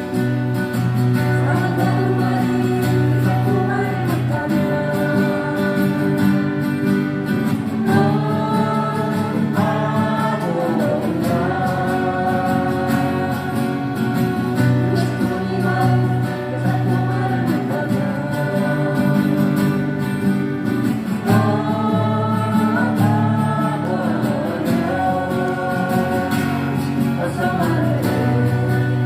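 Live song performance: acoustic guitars strumming with singing over a steady bass.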